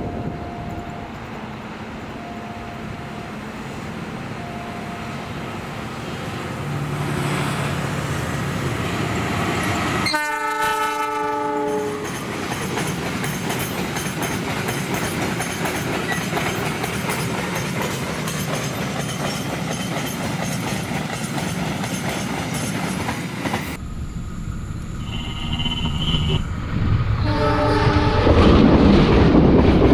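Diesel-electric locomotive hauling a cement freight train passes, wagon wheels clattering over the rails. It sounds its horn for about two seconds around ten seconds in and briefly again near the end, and the engine gets much louder as the locomotive comes close in the last few seconds.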